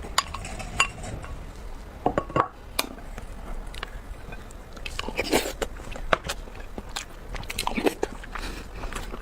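Close-miked eating: chewing and mouth sounds as a run of irregular short clicks and smacks, busier about two seconds in, around the middle and near the end.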